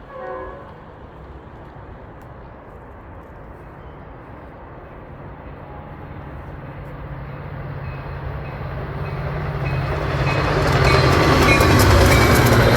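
A train sounds a short blast of its horn at the start, then approaches, its low engine drone and rolling wheel noise growing steadily louder until it is passing close by near the end.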